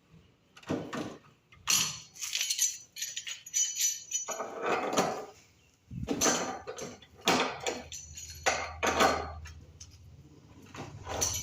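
Hard objects being handled, a string of clinks, clatters and knocks, some with a short metallic ring, and a low steady hum in the second half.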